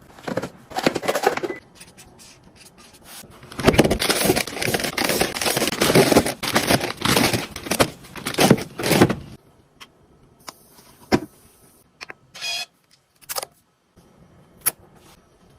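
Plastic containers and packaging being handled and set into a refrigerator: busy rustling and clicking for about nine seconds, then a few separate clicks and a short squeak.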